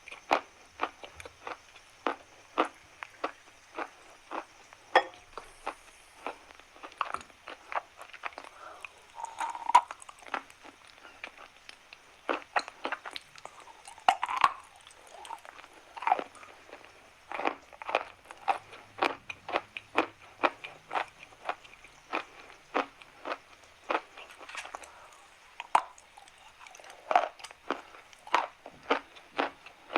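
Chalk being bitten and chewed close to the microphone: a steady run of sharp crunches, about one to two a second.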